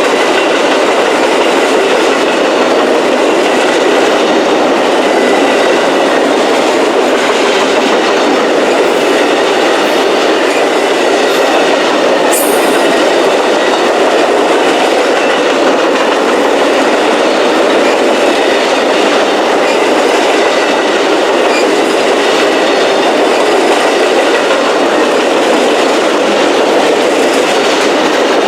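A train's cars rolling past close by, steel wheels running on the rails with a steady, unbroken sound.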